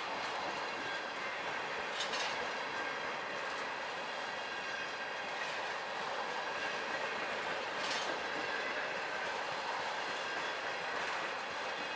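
Freight train of tank cars rolling past: steady rumble and rattle of steel wheels on rail, with a couple of sharper clacks about two and eight seconds in.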